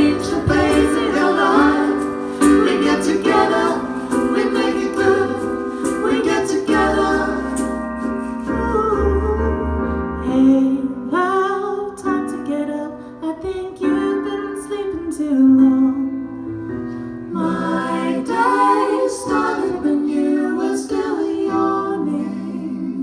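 A song sung by several voices in harmony over a keyboard accompaniment, ending on long held notes.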